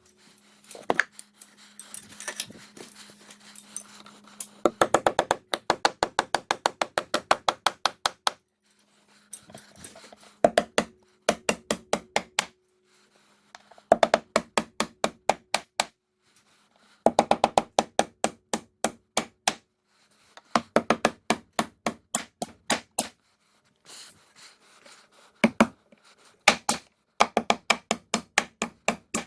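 Impact driver driving fasteners into a wooden ledger board: bursts of rapid, even hammering impacts lasting a few seconds each, with the motor's hum between some bursts and short pauses between fasteners.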